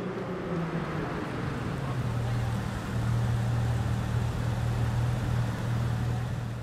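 Car engine running steadily at low revs, a low even rumble with a constant pitch and a hiss of noise above it.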